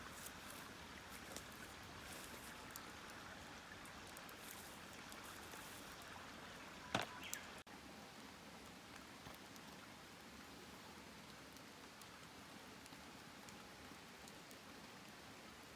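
Faint campfire crackling: scattered small ticks over a soft hiss, with one sharper pop about seven seconds in.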